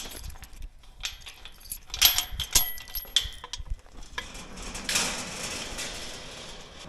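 A quick run of sharp metallic clinks and rattles with a faint ring. About four seconds in it gives way to a rushing noise that swells and then fades.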